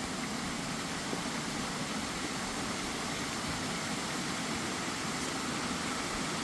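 Steady rush of a waterfall, an even noise with no breaks.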